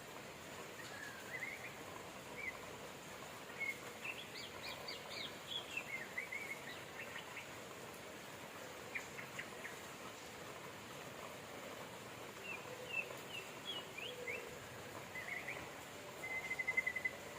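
Steady hiss of rain with small birds chirping over it in scattered short calls and quick rising sweeps, and a fast trill of repeated notes near the end.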